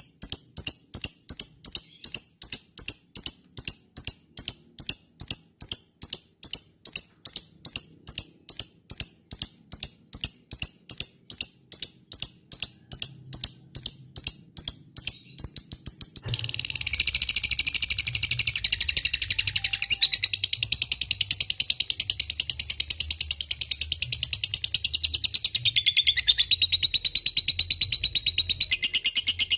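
Lovebird calling in evenly spaced sharp chirps, nearly three a second. About halfway through it breaks into a long, unbroken rapid chatter, the drawn-out 'ngekek' call.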